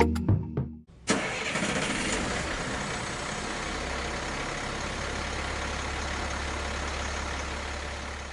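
Background music ends within the first second. About a second in, an engine starts with a sudden burst and then runs steadily with a constant low hum, fading near the end.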